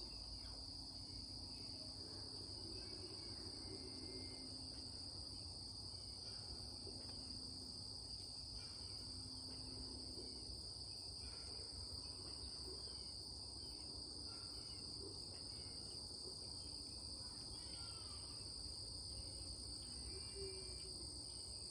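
Crickets chirping in a steady, unbroken high trill, with scattered faint bird calls and a low background rumble underneath.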